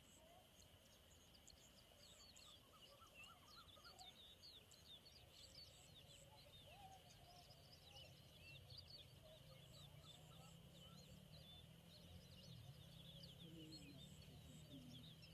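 Faint, quick high chirps from small birds, many short calls in close succession, over a steady faint hiss, with a low rumble coming in about six seconds in.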